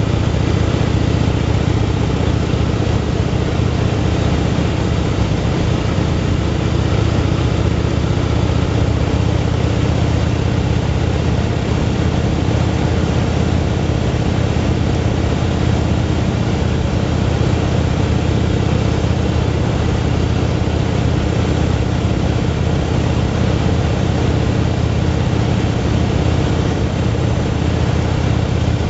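Motorcycle engine running steadily at a constant cruising speed, with wind and road noise over it.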